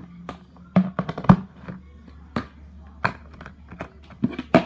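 Irregular clicks and taps of plastic slime containers being handled and set down, a few sharp knocks at uneven gaps.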